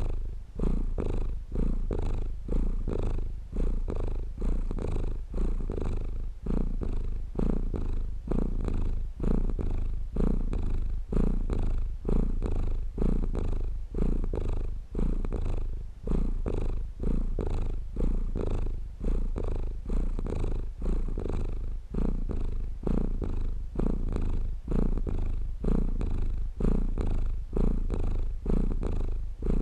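Domestic cat purring continuously, a low rumble that swells and dips with each breath, about once a second.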